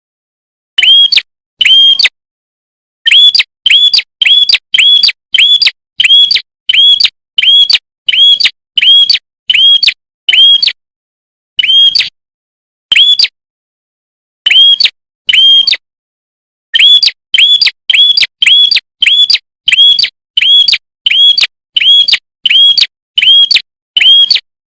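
A red-headed prenjak, a small warbler-type songbird, calling a rapid series of short, sharp chirps, about two a second. The chirps come in runs broken by brief pauses.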